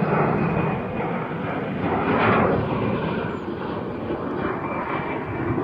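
Large jet airliner climbing out after takeoff, its engines making a steady, loud roar with a faint high whine, swelling about two seconds in.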